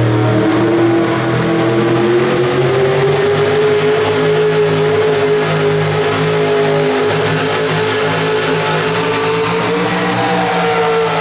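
Pro Street 2WD pulling truck's engine held at high revs under load through a pull, its pitch rising slowly and then easing slightly near the end.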